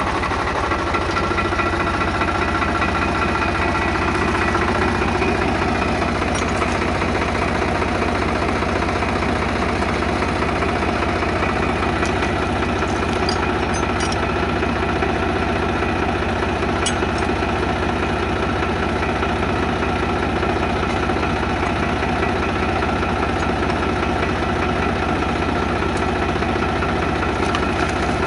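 Engine idling steadily with an even, fine pulse, with a few faint clicks over it.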